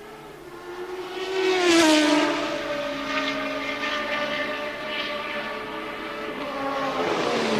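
1983 Formula One cars passing at racing speed: one goes by about two seconds in, its engine note falling in pitch as it passes, and another passes with a falling note near the end, with engine sound steady in between.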